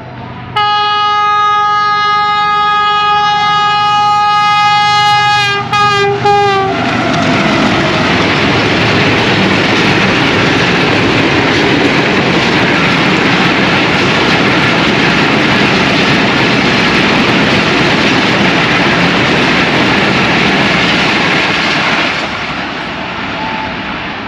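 GEU-40 diesel locomotive sounding its multi-tone horn in a long blast that breaks into short toots and drops in pitch as it passes. Then the loud rush and rumble of the express's coaches running through the station, easing off near the end as the train draws away.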